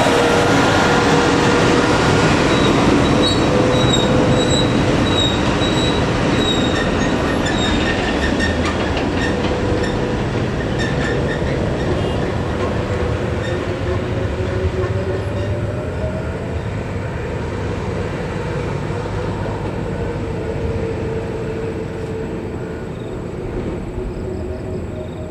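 Heavy vehicle running with a loud steady rumble and a wavering high-pitched squeal, fading slowly away.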